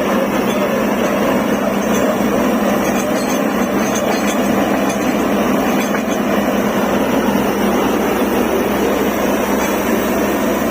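Truck-mounted DTH borewell drilling rig running: a loud, steady mechanical noise.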